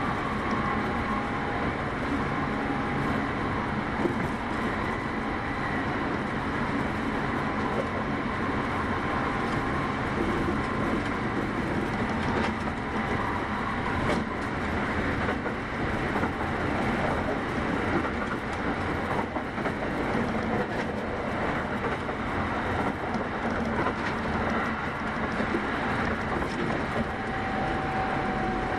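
Kintetsu 8810 series electric train running, heard from inside the passenger car: a steady rumble of wheels on rail with a few faint knocks. A steady tone comes in near the end.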